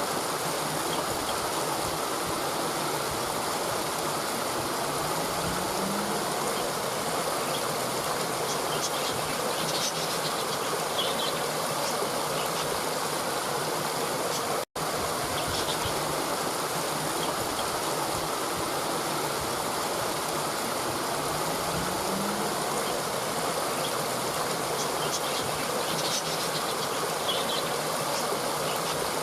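Steady rushing of a stream, with a few faint high chirps. About halfway through the sound cuts out for a split second and the same stretch of recording starts again.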